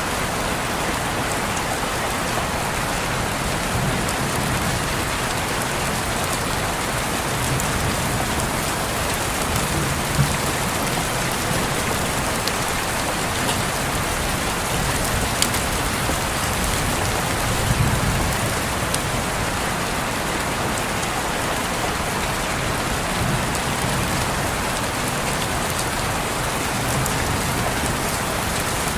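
Steady rain falling on a window, with a few sharper clicks of single drops now and then.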